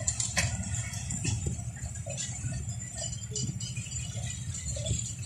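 Passenger train coaches rolling past at a distance: a steady low rumble with rattling and clicking of the wheels on the track.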